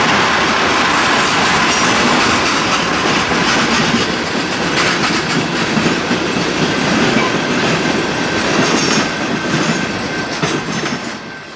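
Freight train cars rolling past: a steady loud rumble and clatter of steel wheels on the rails, with faint brief wheel squeals. The sound fades away near the end.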